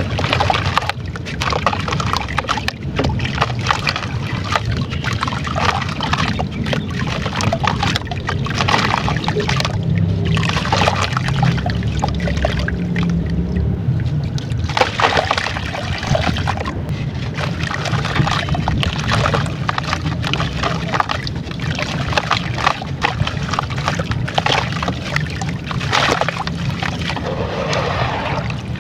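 Crunchy brown sand-textured clay crumbling and being dipped into water: dense, rapid crackling and crunching mixed with water sloshing and gurgling.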